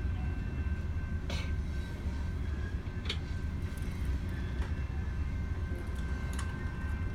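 Long freight train of loaded coal cars rolling slowly past a railroad crossing: a steady low rumble with faint steady high tones over it and occasional short clicks.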